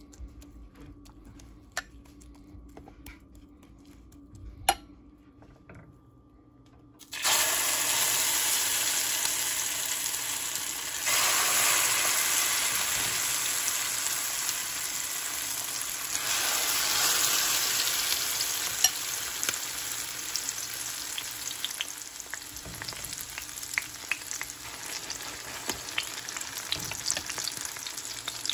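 Fork clicking lightly against a bowl as grilled eggplant and beaten egg are mixed. About a quarter of the way in, a loud sizzle of the eggplant omelet frying in hot oil starts suddenly, surges twice, then slowly eases off.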